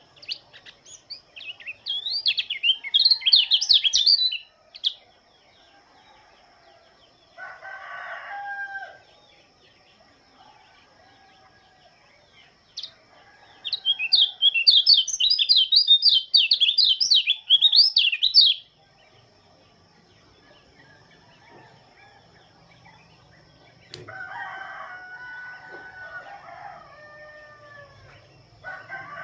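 Lombok pleci (white-eye) singing in two long spells of fast, high warbling twitters, near the start and again in the middle. Lower-pitched calls from another bird come in between and near the end.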